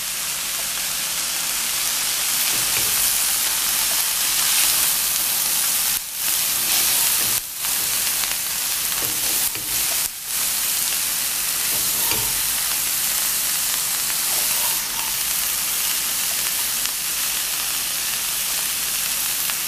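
Shredded cabbage and onion frying in oil over high heat, a steady sizzle while being stirred in the pan. The sizzle breaks off briefly a few times around the middle.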